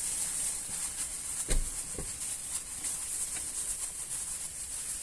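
A steady high hiss with a fast faint flicker in it, and a couple of dull knocks about a second and a half in.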